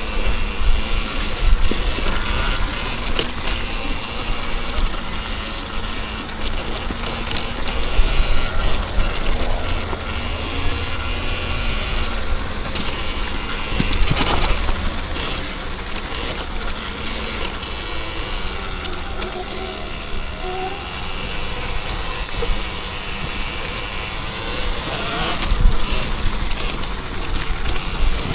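Riding noise from electric dirt bikes on a trail: heavy wind rumble on the microphone over a broad rushing noise, with faint rising and falling motor whine.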